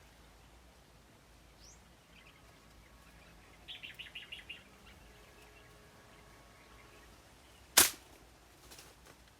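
A small bird chirps a quick run of about seven short notes, then a single sharp crack of a homemade PCP air rifle firing near the end.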